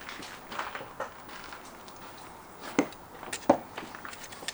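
Scattered metallic clinks and knocks of hand tools and parts while cooling hoses and lines are being disconnected in a car's engine bay, with two sharper knocks a little under a second apart about halfway through.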